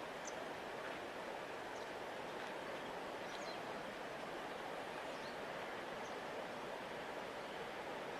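River water flowing with a steady, even rush, with a few faint high chirps scattered through it.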